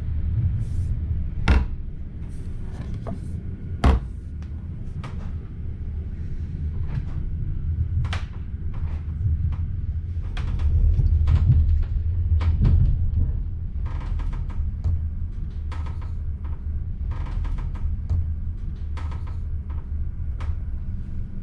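Inside a moving ZSSK Ampz passenger carriage: a steady low running rumble with scattered clicks and rattles of the interior. Two sharp knocks come, one about a second and a half in and one about four seconds in.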